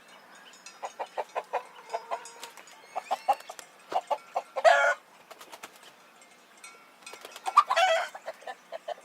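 Chickens clucking in short, repeated notes, with a louder squawk about halfway through and another near the end.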